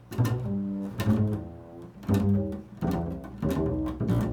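Improvised music on a low-pitched string instrument: about six separate notes, each starting sharply, then ringing and fading before the next.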